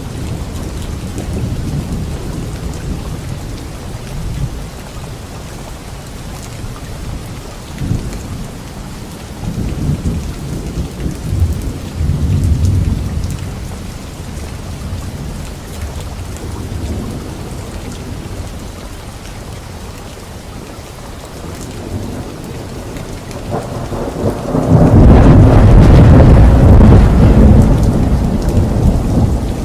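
Steady rain falling on leaves during a thunderstorm, with low rolls of thunder, and a loud, long thunder rumble starting about 24 seconds in.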